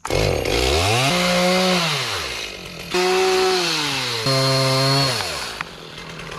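Chainsaw engine revving up quickly and running at high speed. Its pitch sags and then picks up again twice, at about three seconds and four seconds in, before it winds down near the end.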